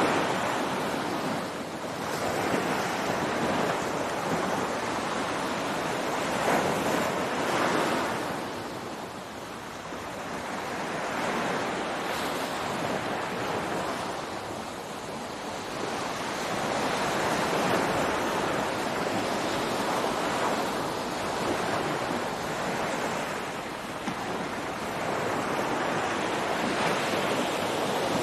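Ocean waves breaking on a beach: a continuous surf wash that swells and recedes every few seconds.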